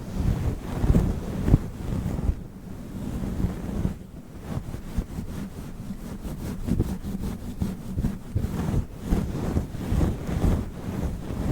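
Fluffy microphone windscreen being rubbed and brushed against the microphone: a low, deep rustling rumble, with quick short strokes a few times a second in the second half.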